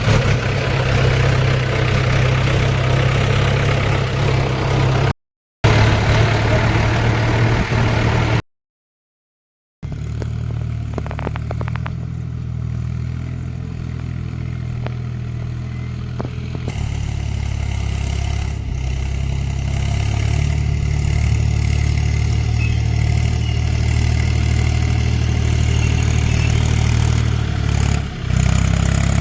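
Tractor diesel engine running with a steady low drone. The sound drops out abruptly twice in the first ten seconds, then carries on steadily.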